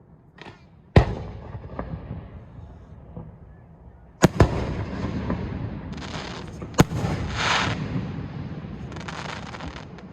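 Aerial fireworks shells bursting: a sharp bang about a second in, another about four seconds in and the loudest near seven seconds, each trailing off in a rumbling echo, with stretches of crackling in between.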